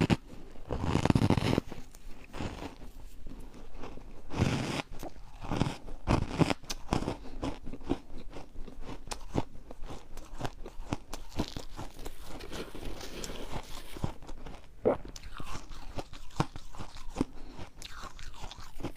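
Refrozen ice being bitten and chewed: long loud crunches about a second in and again around four and a half seconds, then a steady run of shorter, sharper crunches and cracks.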